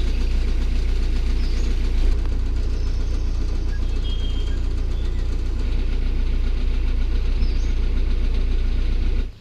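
Narrowboat's diesel engine running steadily at low revs, a deep, even knocking note that cuts off abruptly near the end.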